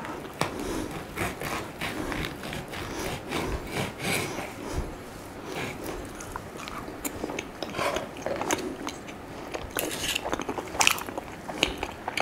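A person chewing a mouthful of crepe, with irregular small clicks and smacks of the mouth throughout.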